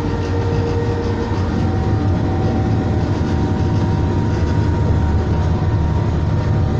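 Class 221 Super Voyager diesel-electric train running at speed, heard from inside a door vestibule: a loud, steady low rumble of underfloor engine and wheels on track, with a few faint steady tones over it.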